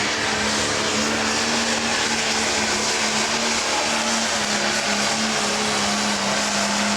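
Pro stock pulling tractor's turbocharged diesel engine running hard at high rpm, a loud, steady drone at an almost constant pitch.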